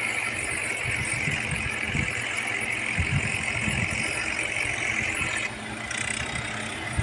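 Diesel tractor engine running steadily, with a higher whine over it that stops about five and a half seconds in.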